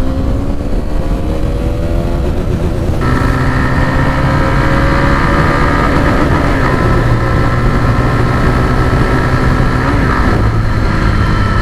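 KTM Duke 390's 373 cc single-cylinder engine running at road speed, its note rising over the first couple of seconds. About three seconds in the sound switches abruptly to a steady engine drone with road and wind noise, heard from down by the front wheel, and it dips slightly in pitch near the end.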